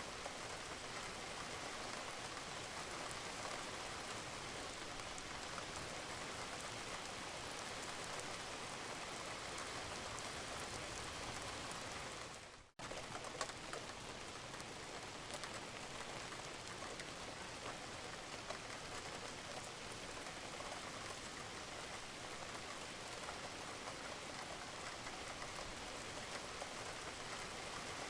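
Steady rain falling on a roof, an even hiss with scattered faint drop ticks. About halfway through it fades out briefly and cuts straight back in.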